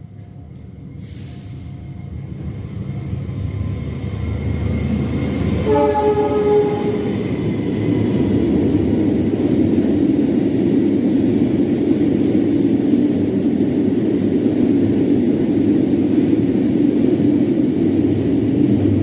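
Indonesian fuel tank train approaching, louder and louder. Its locomotive horn sounds one short blast about six seconds in, and then the string of tank wagons rolls past with a steady rumble of wheels on rail.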